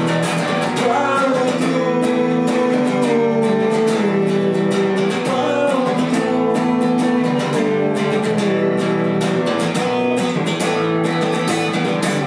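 Live acoustic music: an acoustic guitar strummed in a steady rhythm, with a held melody line over it.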